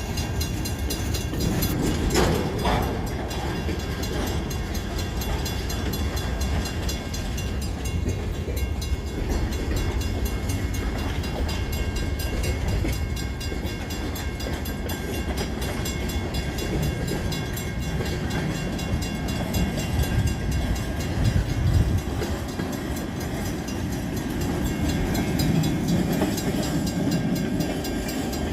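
Freight train cars rolling slowly past: a steady low rumble of wheels on rail, with one brief sharp sound about two seconds in.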